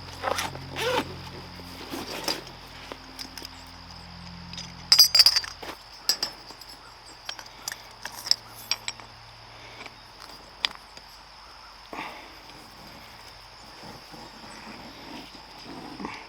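Scattered sharp clinks and knocks, the loudest a quick cluster about five seconds in, over a low steady hum that stops about six seconds in.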